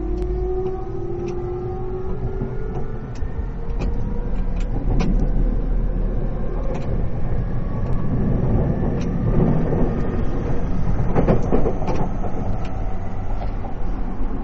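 Yamanote Line E231 series 500 electric train running, its traction motor whine rising in pitch over the first few seconds as it gathers speed. Then a steady rumble that grows louder, with scattered sharp clicks from the wheels on the track.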